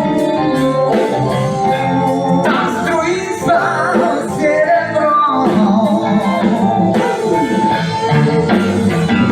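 A band playing a song: guitar and other instruments with a sung vocal line.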